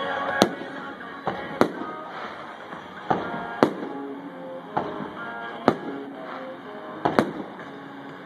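Aerial fireworks shells bursting: about nine sharp bangs, some in quick pairs, with music playing underneath.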